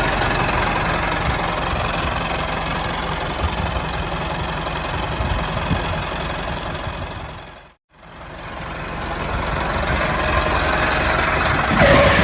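Small engine of a handmade mini tractor running steadily. It drops out for a moment about two-thirds of the way through, then fades back up.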